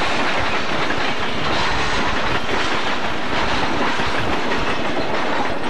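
Freight train boxcars rolling past close by: a steady, loud rumble and rattle of steel wheels on the rails and the cars' bodies and couplers.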